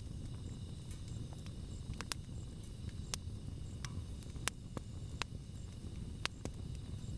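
Wood campfire burning: a steady low rush of flame with sharp crackles and pops of burning wood at irregular moments, about a dozen in all.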